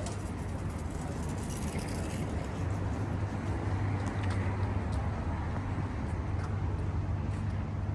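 City street traffic: a steady low engine hum of motor vehicles running and passing, under an even wash of road noise.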